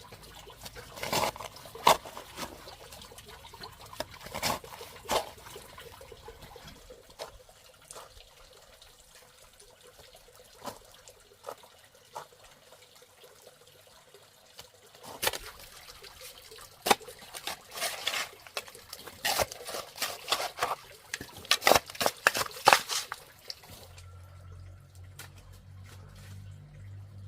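Water splashing and trickling in uneven spurts, with quieter stretches between. About 24 seconds in it gives way to a steady low hum.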